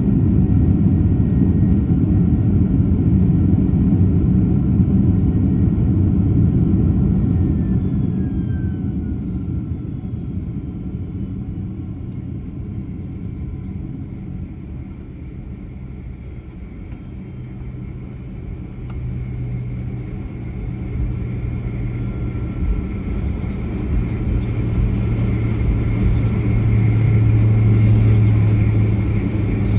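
Rumble of a Boeing 767 heard from inside the cabin. It eases off about halfway through, then a steady low engine drone with a higher whine builds up and gets louder toward the end.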